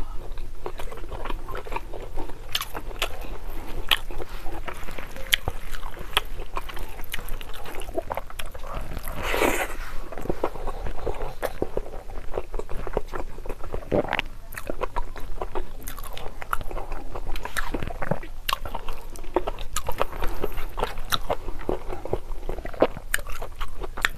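Close-up chewing and mouth sounds of a person eating rice with mutton curry, many short, moist clicks and crunches in an irregular stream. A louder, longer mouth sound comes about nine and a half seconds in.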